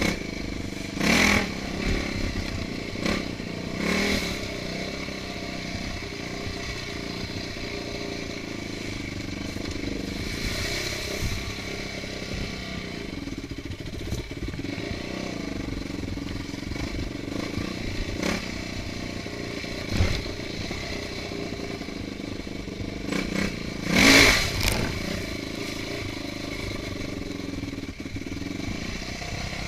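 Trail motorcycle engine running as the bike is ridden on a dirt trail, at a fairly even pace. Several short, loud bursts of noise break in, a few in the first four seconds and the loudest about 24 seconds in.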